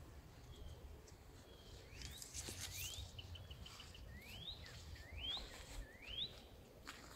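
A bird singing faintly: about five short whistled notes, each sweeping quickly upward, with a brief quick run of chips after the second, over low outdoor background noise.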